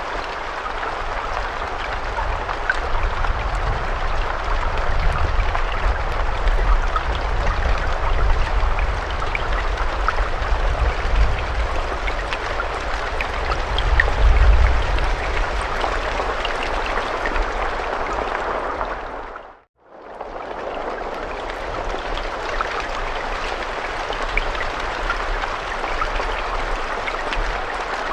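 Steady rainfall: an even hiss of rain with scattered small drop taps and a low rumble underneath in the first half. About two-thirds of the way through it fades out to silence for a moment and fades back in, a loop seam in the recording.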